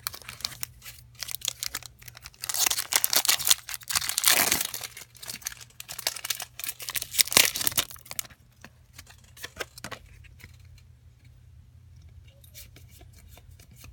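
Foil booster-pack wrapper being torn open and crinkled, in a run of crackling bursts lasting about six seconds, loudest twice in the middle, followed by a few lighter rustles and clicks.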